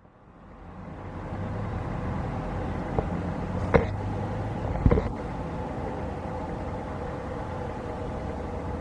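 Jet airliner engines running steadily with a held hum and whine, fading in over the first second or so. A few short sharp knocks come about three to five seconds in.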